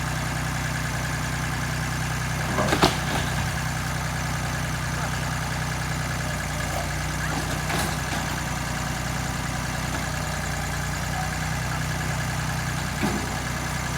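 Tractor engine running steadily at a low, even speed, with a sharp knock about three seconds in and fainter knocks later.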